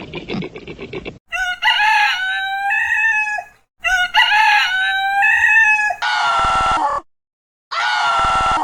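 A rooster crowing twice, each crow a long cock-a-doodle-doo of about two seconds. Near the end come two shorter, steadier calls of about a second each from another animal.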